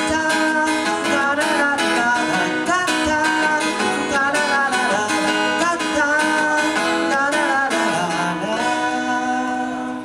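Acoustic guitar playing the closing bars of a song, settling onto a held final chord that rings out from about eight seconds in.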